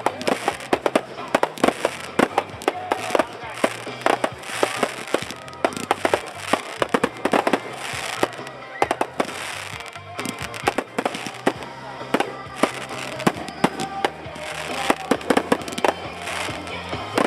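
Fireworks show: shells bursting in many sharp bangs in quick, irregular succession, with crackling between them.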